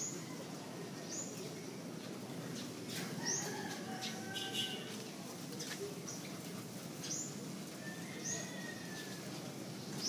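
Small birds chirping: short, high chirps, one every second or two.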